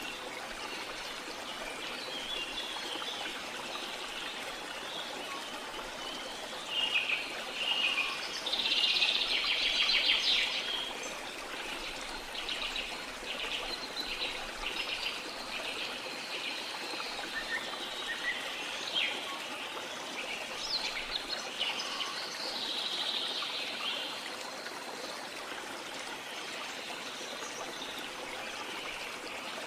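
Steady rush of falling water from a waterfall, with birds chirping over it. The loudest calls come about a third of the way in, followed by a run of quick repeated notes, and more calls come and go later.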